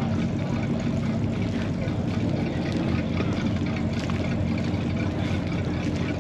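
A vehicle engine running steadily, a low even hum with no change in pitch.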